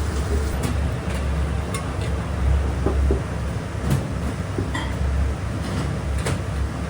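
Restaurant kitchen at work: a steady low hum with a few scattered knocks and a brief ringing clink of pots and utensils.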